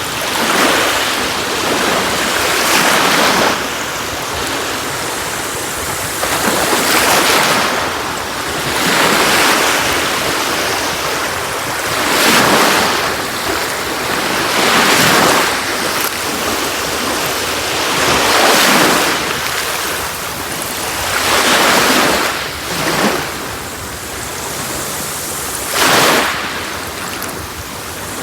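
Sea waves breaking on a beach, one after another, each surge of surf rising and falling every two to three seconds over a steady wash.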